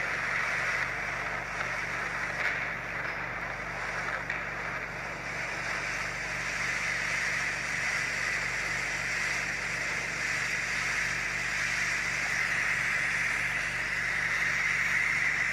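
Renault Mégane coupé's 1.6 16-valve petrol engine running steadily, a low even hum under a constant hiss.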